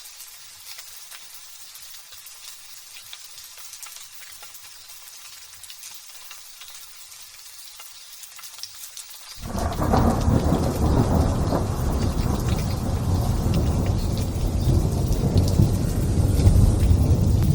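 Light drizzle pattering for about nine seconds, then thunder breaks in suddenly and rolls on loudly, deep and long.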